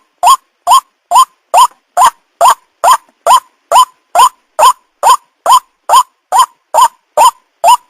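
White-breasted waterhen call, a short upward-bending 'kwak' note repeated evenly about twice a second, as played back for luring ruak-ruak.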